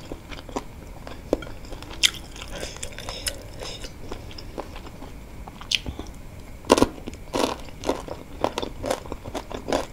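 A person chewing and crunching mouthfuls of wontons filled with crunchy chicken cartilage (pangsit tulang rangu): scattered soft crunches, a few louder ones about seven seconds in, then steady rhythmic chewing near the end.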